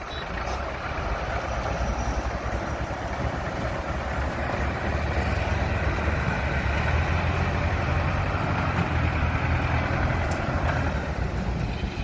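Tracked combine harvester's diesel engine running steadily under load, growing louder over the first several seconds as the machine comes closer, then holding level.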